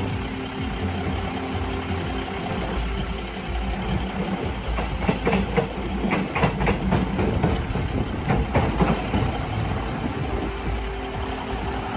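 Diesel train: a steady engine hum, with a quick run of wheel clacks over rail joints or points from about four to nine seconds in.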